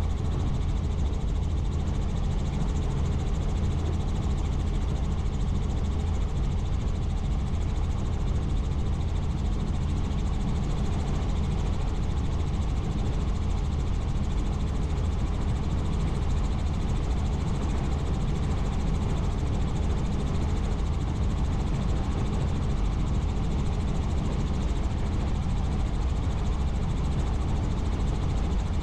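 Helicopter in flight: a steady engine and rotor drone with a low, even hum that doesn't change.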